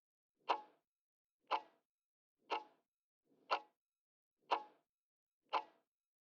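Clock-tick sound effect of a quiz countdown timer, ticking once a second, six ticks, while the time to answer runs down.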